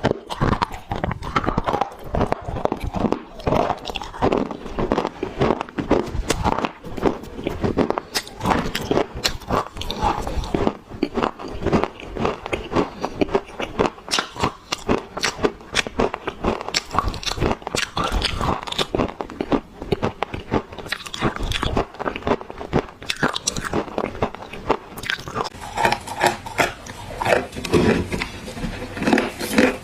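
Dry black clay being bitten and chewed close to the microphone: a continuous run of sharp, crackling crunches.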